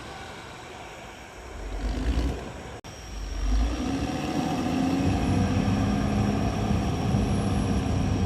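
Caterpillar D6R XL bulldozer's diesel engine running, quieter at first with low rumbling swells, then louder and steady under load from about four seconds in. A momentary dropout just under three seconds in.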